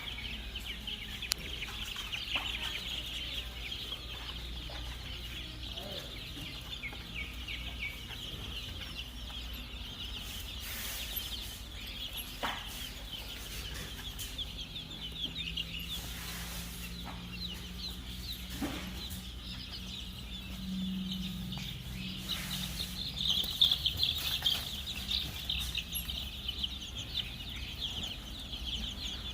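A crowd of baby chicks peeping continuously in high, rapid chirps, swelling louder about three-quarters of the way through. A low hum runs under them for several seconds in the middle, with a few scattered knocks.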